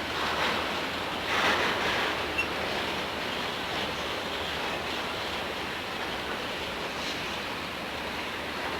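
Freight train rolling past on the track, a steady rushing noise of wheels on rail that swells briefly in the first two seconds.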